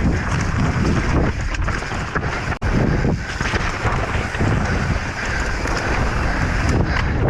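Wind buffeting an on-board camera's microphone during a fast mountain-bike descent, with steady rumble and constant small rattles and knocks from the bike over rough ground. The sound cuts out for an instant about two and a half seconds in.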